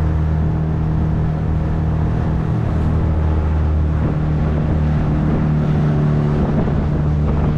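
Small motorboat's engine running at a steady speed, a constant drone with water and hull noise underneath.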